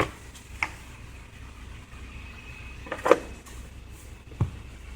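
A few scattered light knocks and clicks of parts being handled during a crankcase ventilation filter change, over a low steady hum.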